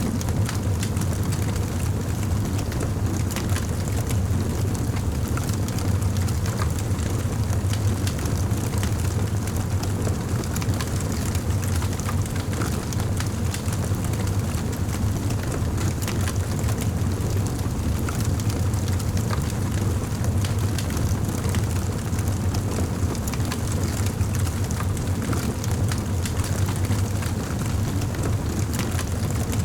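Wood fire burning in a fireplace, crackling with frequent small pops over a steady low rumble.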